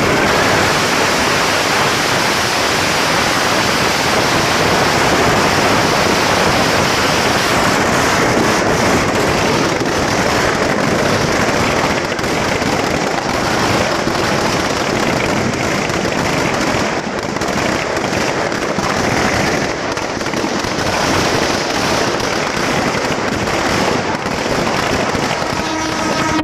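Many firecrackers going off at once, a dense, continuous crackle of rapid bangs that stays loud and even.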